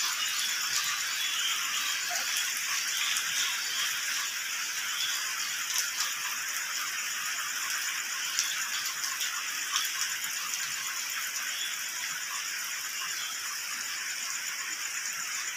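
Steady rain falling on a wet yard: an even high hiss with scattered drop ticks.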